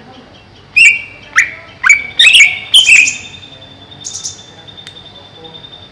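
Greater green leafbird calling: about five loud, sharp notes with quick pitch sweeps in the first half, followed by a few softer notes.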